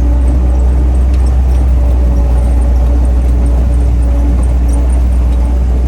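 1944 Army Jeep's four-cylinder engine running steadily under way, with a heavy, constant low rumble.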